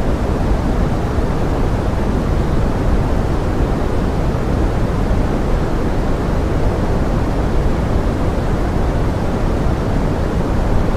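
Forest rain mixed as pink noise: a steady, deep, even hiss with no single drops or other sounds standing out.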